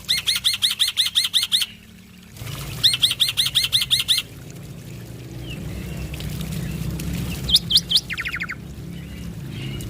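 Male black-winged myna (jalak putih) singing: two bouts of fast repeated whistled notes, about eight a second, then a short burst of loud notes and a rapid trill near the end, over a low steady hum.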